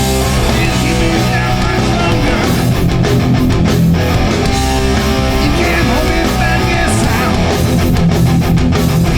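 Hardcore punk band playing live at full volume: distorted electric guitars and bass over pounding drums, with no vocals.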